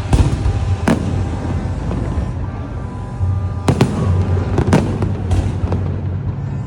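New Year fireworks going off in sharp bangs: two in the first second, then a quick run of several more after a short lull. Music plays steadily underneath.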